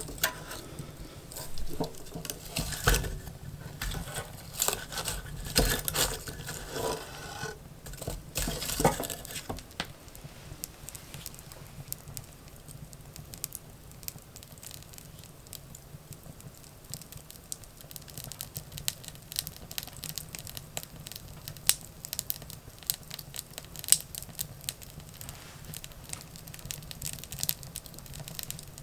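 Firewood burning, crackling and popping. The crackle is dense and loud for the first nine seconds or so, with some duller knocks among it, then thins out to scattered sharp snaps.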